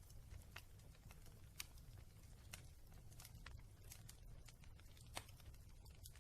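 Wood fire crackling in a fireplace: faint, sparse sharp pops over a low steady rumble.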